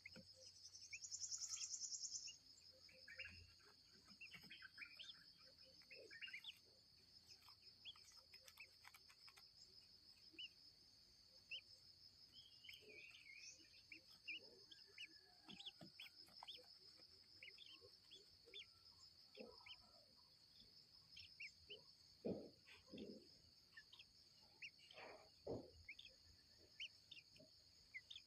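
A steady, high-pitched drone of insects, probably crickets, runs under many short, scattered bird chirps and calls. A louder buzz swells briefly about a second in, and a few stronger calls come about two-thirds of the way through.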